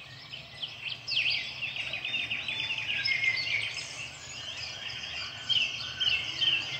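Many birds chirping and singing at once, overlapping calls with a fast trilled song starting about a second in.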